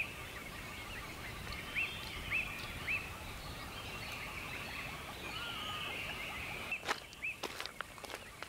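A bird giving a string of short, clear chirping calls with a brief trill in the middle, over a faint steady outdoor hiss. A few sharp clicks come near the end.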